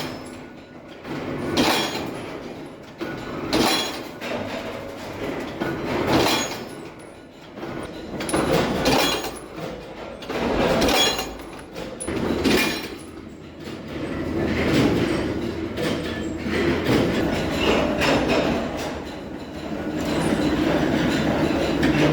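Bolt-making machinery running, with repeated metallic clanks about every two seconds over a steady machine hum, turning to a steadier, denser machine noise in the last several seconds.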